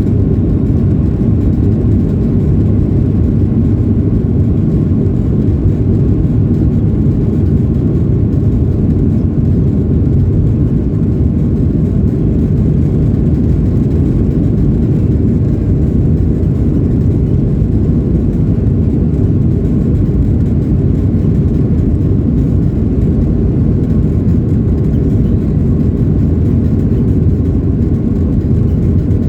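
Steady roar of a Boeing 737-800's CFM56-7B turbofan engines and rushing air, heard inside the cabin during the climb after takeoff, with a faint steady whine above the low rumble.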